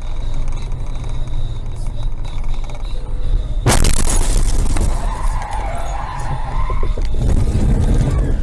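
Steady road and engine rumble of a moving car. About four seconds in comes a sudden loud crash impact with crunching and scraping, followed by a wavering squeal.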